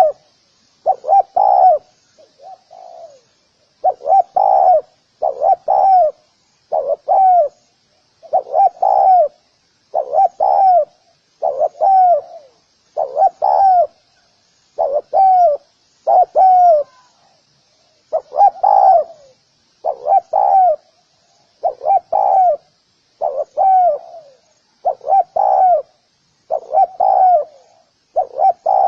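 Spotted dove cooing over and over, a call of two or three short notes roughly every one and a half to two seconds, with a faint high hiss behind it.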